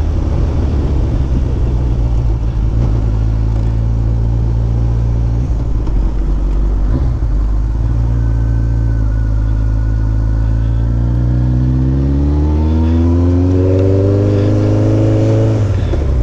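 Kawasaki Ninja ZX14R's inline-four engine running under way, steady at first, then revving up smoothly over about four seconds before the pitch drops near the end, as at a gear change.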